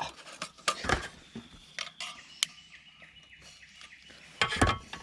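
A few scattered knocks and clicks, the loudest about a second in and a cluster near the end, with faint bird chirps behind.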